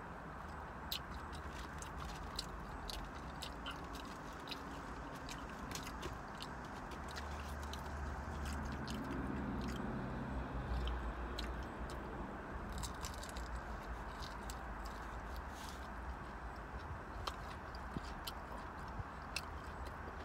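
Close-up eating sounds: biting and chewing fried catfish and fries, with frequent small crunches and clicks. A low rumble swells up in the middle and fades again.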